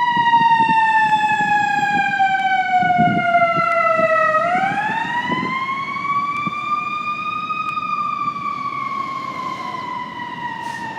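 Fire engine siren wailing: the pitch falls slowly for about four seconds, rises again over the next three, then starts falling slowly again.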